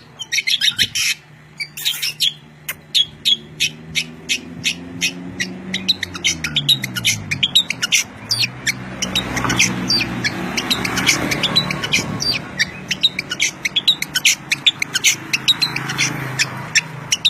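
Songbird chirping busily, rapid sharp high chirps about two or three a second, over a low steady hum whose pitch slides down around the middle.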